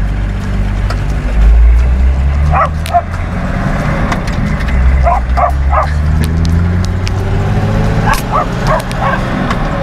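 Toyota Land Cruiser engine droning steadily at road speed, heard from inside the cab. Kelpie dogs riding along bark and yip in three short clusters, a few seconds apart.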